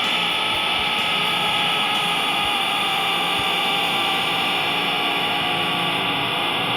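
Steady, loud rushing noise with a few faint held tones and no beat, a drone-like wash that takes over from guitar music.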